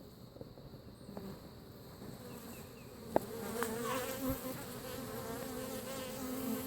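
Honeybees buzzing in a steady hum around an opened top-bar hive during an inspection, the hum growing louder about three seconds in. A single sharp click sounds at about the same moment.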